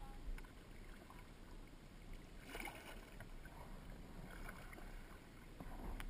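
Kayak paddle dipping and splashing in the water, with a brief louder splash about two and a half seconds in and a few light knocks near the end.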